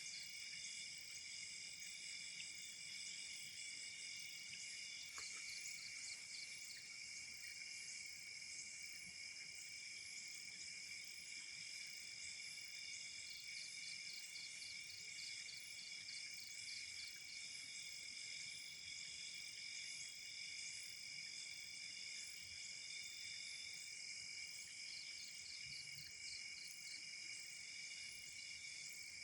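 Faint night chorus of crickets: several steady high-pitched trills layered together, with a faster pulsed chirping that joins in for a few seconds at a time, about five seconds in, midway, and near the end.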